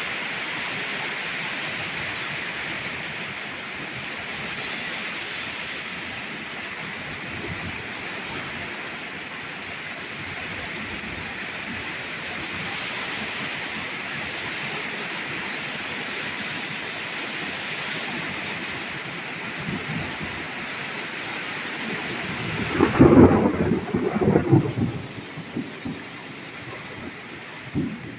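Torrential thunderstorm rain pouring down with a steady hiss. About 23 seconds in, a loud crack of thunder rumbles for about two seconds, and a shorter rumble comes near the end.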